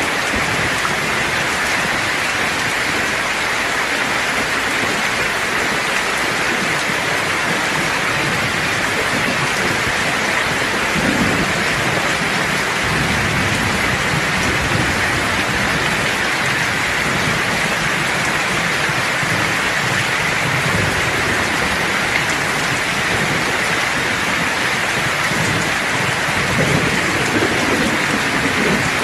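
Steady rain falling in a thunderstorm, a dense hiss, with low rolls of thunder rumbling under it about a third of the way in and again near the end.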